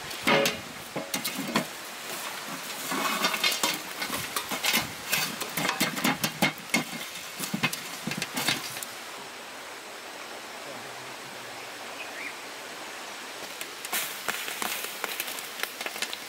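Utensils clattering and scraping against a cooking pot, many quick knocks and clicks, as fried paneer and cashews are added to the pulao to cook on dum. A quieter stretch of steady hiss comes in the middle before the clatter resumes near the end.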